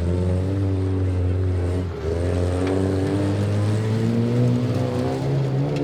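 Demolition derby car engine running hard and revving, its pitch dropping about two seconds in and then climbing slowly again.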